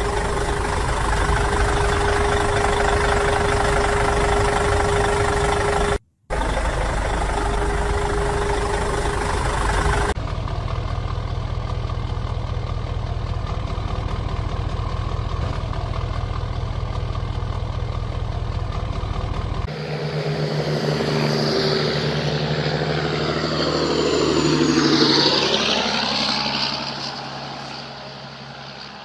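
Heavy truck engine running steadily, in several spliced segments. It drops out briefly about six seconds in and changes character twice. Near the end, sweeping tones fall and rise before the sound fades.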